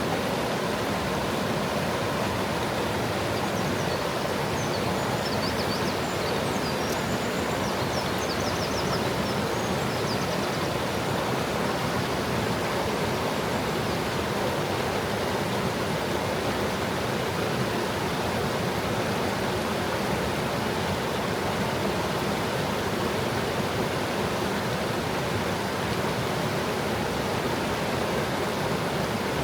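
Forest stream babbling steadily as water flows over stones. A few seconds in, a bird's faint high twittering comes and goes.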